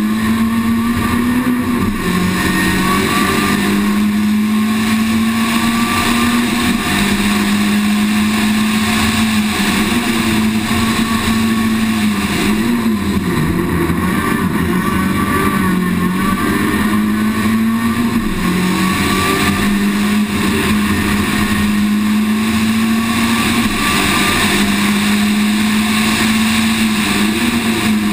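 Citroën Saxo VTS rally car's four-cylinder engine at high revs on a rallysprint stage. The engine note holds steady, then dips briefly and climbs back several times as the car changes gear and slows for bends.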